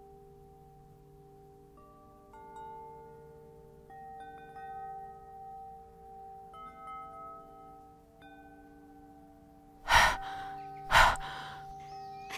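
Soft chime-like music: sustained ringing notes entering one after another and overlapping. Near the end come two short, loud rushes of noise about a second apart.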